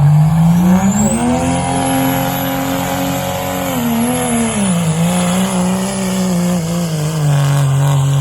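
Engine of a pulling truck or tractor running hard under load on the pull. Its pitch climbs over the first two seconds, holds high, sags about four to five seconds in, then drops near the end. A high whistle rises above it in the first second or so and fades away by about six seconds.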